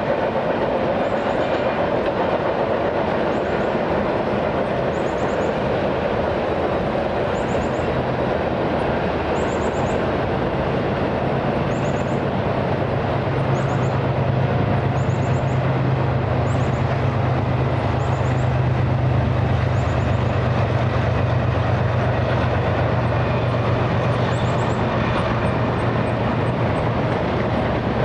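A train rolling past on the rails with a continuous steady rush of wheel noise. A low drone swells about ten seconds in and eases near the end.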